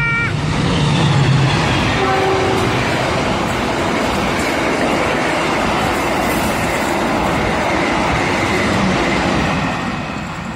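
An Indonesian diesel-electric locomotive-hauled passenger train passing close by at speed. A horn blast cuts off just as it begins, then there is a long, steady clatter and rush of wheels on rail as the coaches go by, which fades near the end.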